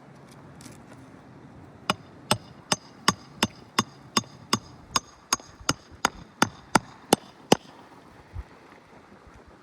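Hand hammer driving roofing nails into an asphalt shingle: about sixteen sharp, even blows, roughly three a second, each with a slight metallic ring. A single softer knock follows near the end.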